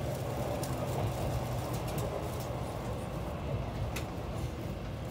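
Tokaido Shinkansen train heard from inside the passenger cabin as it slows on its approach to Tokyo: a steady low rumble and hum with a few faint clicks.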